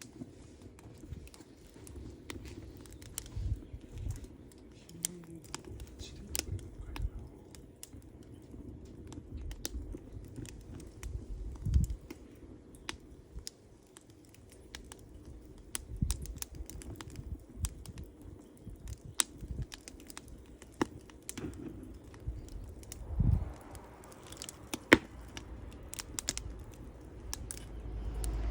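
Wood campfire burning, crackling and popping irregularly over a low rumble, with a few louder pops now and then.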